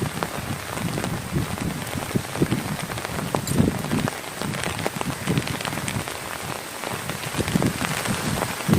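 Steady rain falling, with many irregular close drops striking a surface on top of an even hiss.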